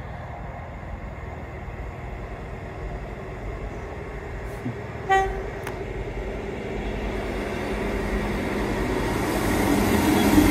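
Northern passenger train approaching and running alongside the platform, sounding one short horn toot about five seconds in; its rumble of engine and wheels then grows steadily louder as it comes close.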